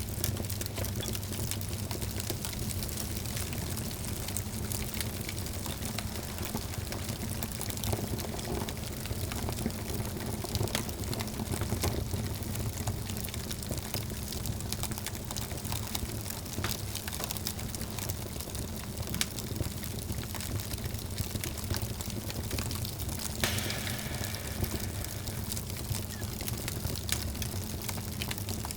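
Wood fire crackling in a fireplace: a dense run of small snaps and pops over the low, steady rumble of the flames, with one louder pop about two-thirds of the way through.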